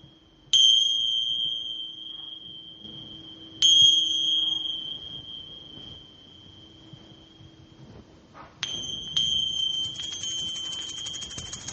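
A small, high-pitched metal bell is struck four times, each strike ringing on in one clear, slowly fading tone. The last two strikes come about half a second apart, and a quick shimmering rattle joins the ringing over the last couple of seconds.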